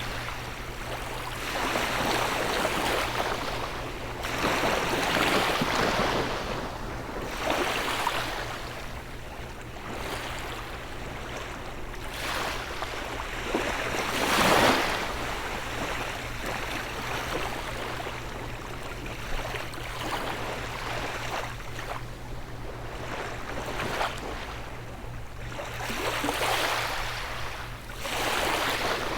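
Small ocean waves washing onto a beach, one surge after another every two to three seconds. The biggest one breaks about halfway through. A steady low hum runs underneath.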